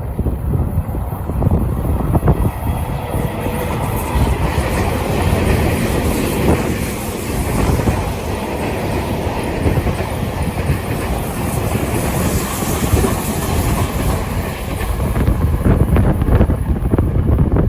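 Tobu 50050 series electric train passing through a curve on the rails, with strong wind buffeting the microphone.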